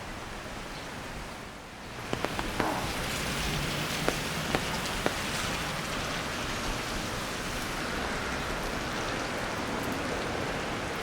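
Steady hiss of rain on a wet street, rising suddenly about two seconds in, with a few sharp drop-like ticks over the next few seconds.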